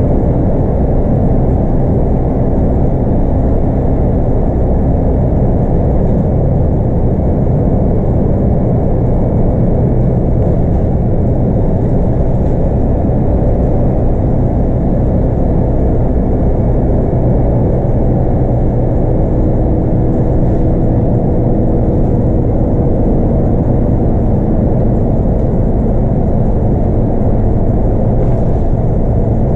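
Scania K230UB bus's 8.9-litre five-cylinder DC9 diesel engine running steadily under way, with road and tyre noise, heard from inside the bus.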